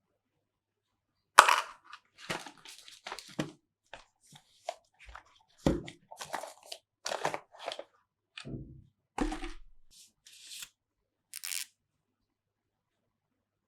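Packaging being handled while a smartphone is unboxed: a run of crinkling, tearing and rustling with light clicks and a few dull knocks. It starts about a second and a half in and stops well before the end.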